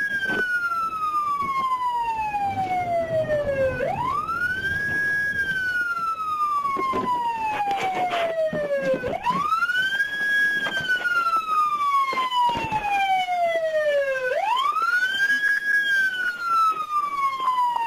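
Police car siren on a slow wail: each cycle rises quickly, holds briefly, then falls slowly, repeating about every five seconds for three and a half cycles. A few short knocks sound partway through.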